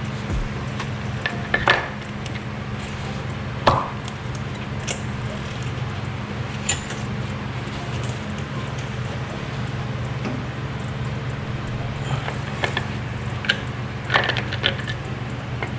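Scattered sharp clicks and clinks of hand tools and parts being worked loose in an engine bay, a few at a time, over a steady low hum.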